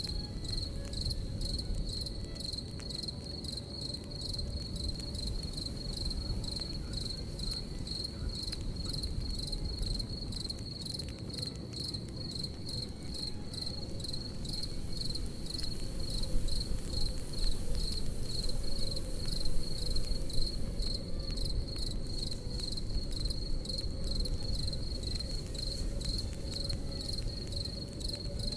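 Crickets chirping in a steady, evenly pulsing rhythm, over the low rush and soft crackle of a campfire.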